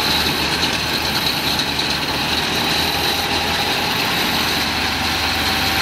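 Volkswagen Schwimmwagen's air-cooled flat-four engine idling steadily with a low, even throb.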